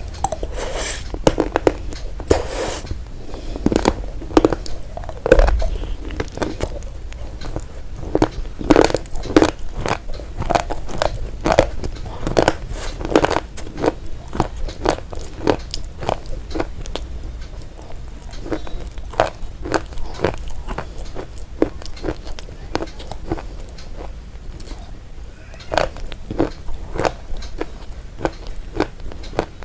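Close-up chewing of crunchy food: sharp, irregular crunches, a few a second, with brief pauses.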